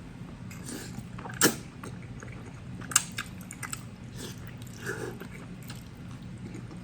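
A person eating noodles in black bean sauce: chewing with soft mouth sounds and scattered small clicks, two sharper clicks standing out about a second and a half in and at three seconds.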